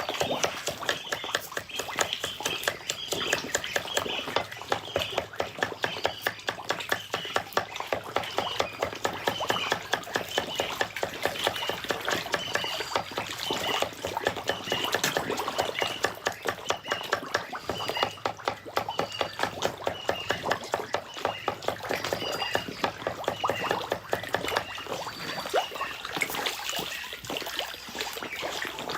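A crowd of feeding carp (black carp and grass carp) churning the water surface: a dense, continuous run of splashes and slaps. A short high chirp repeats about once a second over it.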